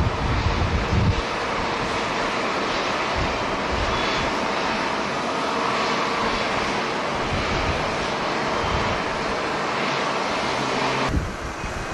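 Jet airliner engines heard as a steady, even roar. Wind buffets the microphone in the first second. The jet noise cuts off abruptly near the end and the wind rumble returns.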